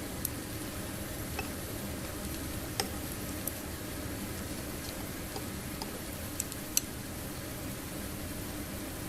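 Yakitori grilling over a small tabletop fire pit: a steady hiss with scattered sharp crackles and pops, the strongest about three seconds in and again near seven seconds.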